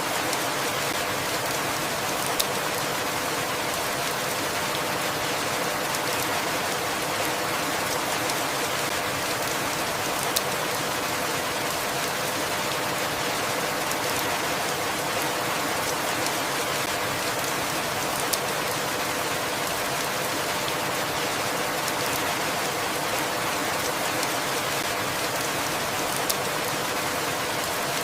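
Steady rainfall, an even hiss of many drops, with a single louder drop tick about every eight seconds.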